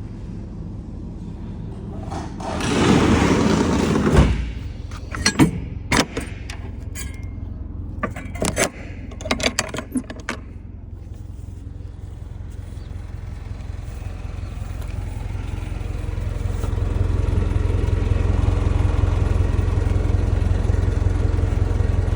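Isuzu NPR box truck's engine idling steadily, getting louder in the last few seconds. About three seconds in a loud rattling scrape, then a string of sharp knocks and clanks over the next several seconds.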